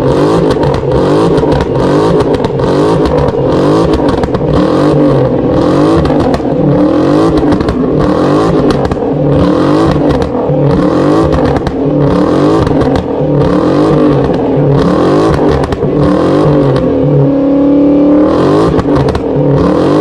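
Car engine revving hard, its pitch rising and falling over and over as the sedan spins donuts on the asphalt. About three-quarters of the way through, the revs hold steady for a moment.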